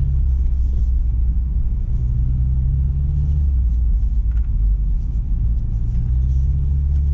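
1997 Mazda Miata's 1.8-litre four-cylinder engine running at low speed in the snow, with a steady low rumble. The engine note drops away about three and a half seconds in and comes back near six seconds.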